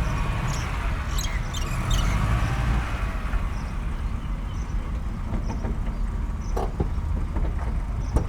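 Steady low rumble of a vehicle engine running, with a few short bird chirps in the first couple of seconds.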